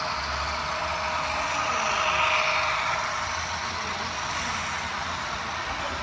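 Sound decoder of an HO scale ScaleTrains ES44AC model locomotive playing its GE diesel engine sound through the model's small speaker. The sound is steady and swells a little about two seconds in.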